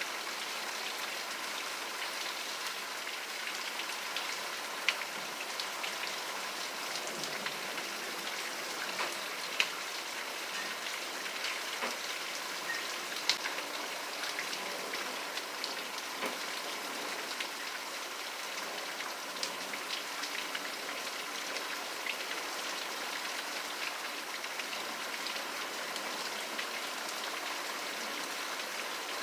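Steady rain falling, an even hiss with scattered individual drops ticking sharply on a surface, a few louder drips standing out.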